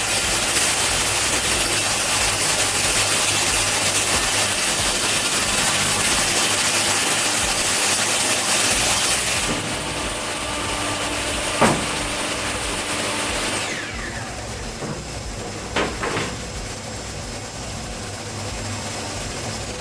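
Table saw with a 60-tooth blade running at full speed with a steady hiss, then switched off and winding down with a falling pitch. Two sharp knocks come near the end.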